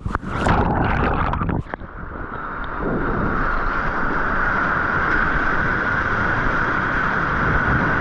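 Whitewater rushing and splashing around a kayak on a river: a few sharp splashes in the first two seconds, then a steady rushing of water, muffled in the highs.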